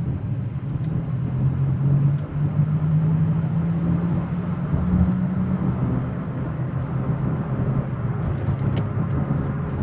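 2003 Ford F-150 4x4 driving at road speed with a steady low whirring drone under the road noise, its pitch rising slightly for a few seconds before dropping back about six seconds in. The owner suspects worn wheel bearings or a fault in the 4x4 front end.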